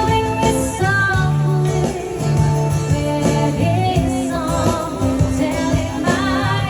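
Live band playing a song: a singer's wavering, sustained notes over guitar and a steady bass line.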